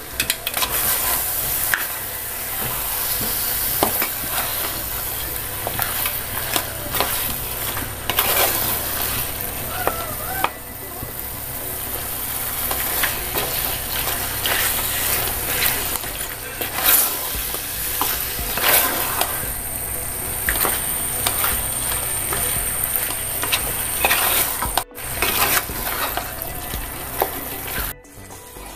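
Chicken pieces sizzling in hot masala in an aluminium pot while a spatula stirs and turns them, scraping and knocking against the pot. The sound breaks off suddenly twice near the end.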